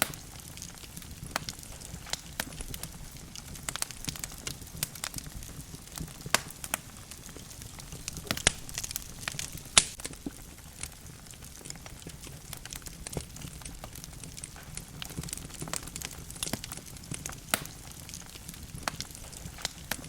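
Logs burning in a wood fireplace, crackling with irregular sharp pops over a low steady rumble of the flames; the loudest pop comes about ten seconds in.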